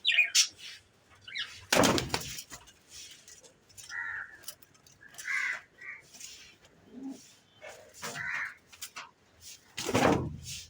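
Birds calling in short separate calls, with scattered light clicks and two louder rustling bursts, one about two seconds in and one near the end.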